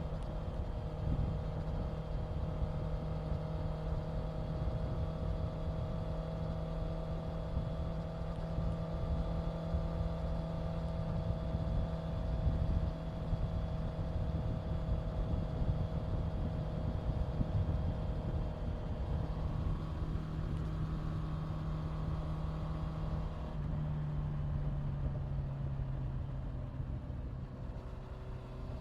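Honda CBR650F's inline-four engine running at a steady cruise, with wind rushing on the microphone. About three-quarters of the way through the engine note drops, and it keeps falling near the end.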